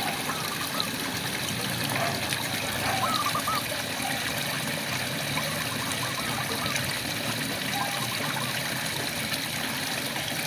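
Steady rainfall with frogs calling over it: short, wavering trilled calls come several times, about three seconds in, around the middle and again near the end.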